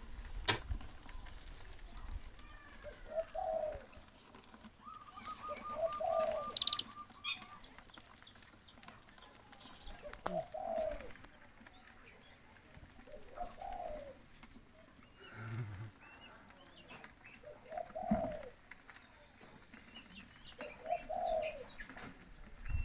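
A dove cooing over and over, a short low call every few seconds, six times. In the first ten seconds it is mixed with several sharp, high chirps from a smaller bird and a brief even trill.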